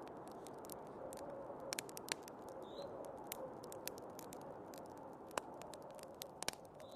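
Wood fire crackling in a fireplace, with irregular sharp pops and snaps, over a steady rushing of storm wind.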